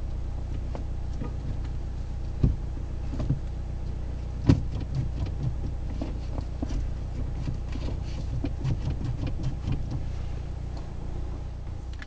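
Mazdaspeed3's 2.3-litre turbocharged four-cylinder idling steadily, heard from inside the cabin, with scattered clicks and knocks, the loudest about two and a half and four and a half seconds in.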